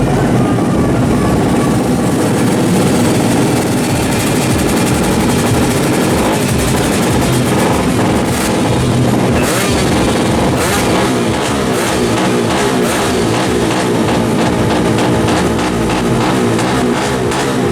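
Two-stroke Yamaha F1ZR drag-bike engine running and revving, mixed with background music; a steady beat comes through more clearly from about ten seconds in.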